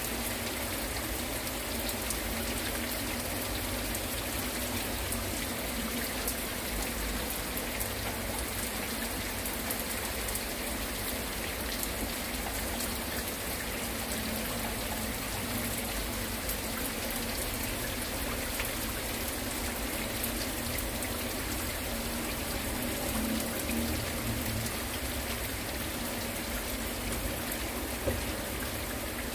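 Heavy rain falling steadily, a dense even hiss of drops hitting surfaces, with water running and trickling beneath it.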